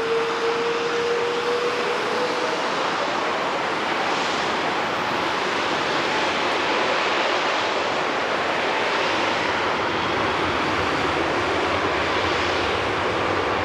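Jet airliner passing close by, a steady loud jet roar. For the first couple of seconds an engine whine rises slightly in pitch, then fades out.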